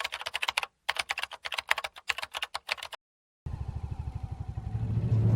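Rapid clicking like keys being typed, in two runs with a brief gap, then a short silence. After that, a low, rapid pulsing grows steadily louder.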